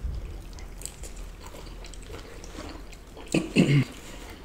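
Biting into and chewing crispy fried chicken, with small scattered crunches and mouth clicks. About three and a half seconds in, a short two-part hum of a voice.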